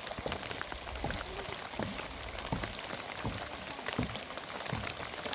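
Heavy rain falling steadily, with many separate drops striking close by as irregular taps.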